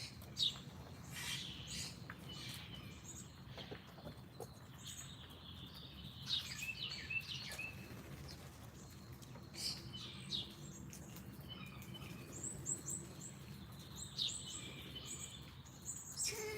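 Wild birds chirping and calling: scattered short high chirps, with a quick run of rapid high notes about twelve to thirteen seconds in, over a faint steady low hum.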